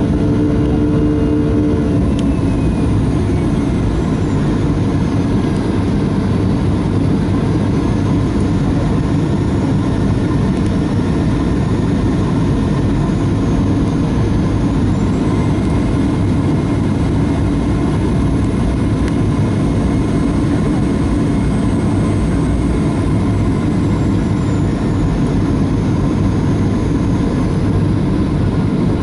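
Cabin noise inside a Boeing 737-400 airliner: a steady rush of the CFM56-3 jet engines and airflow, heaviest in the low end. Faint whining engine tones slowly glide up and down in pitch as engine power changes.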